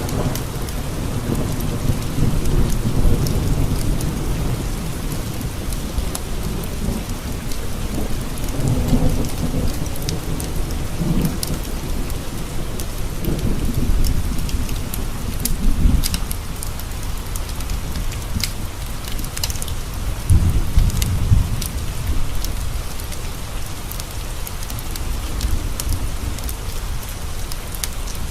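Steady rain with several low rolls of thunder that swell and fade, the strongest about three-quarters of the way through, and scattered sharp ticks on top.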